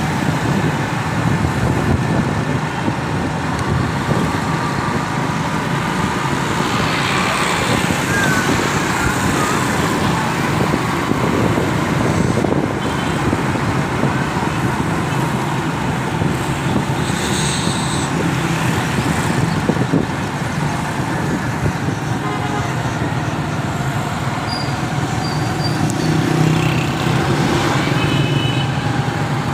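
Busy road traffic: vehicle engines and tyres running steadily, with a short horn toot near the end.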